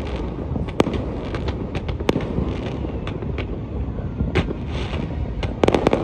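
Fireworks going off: sharp cracks and pops at uneven intervals over a steady low rumble, with a quick volley of bangs near the end.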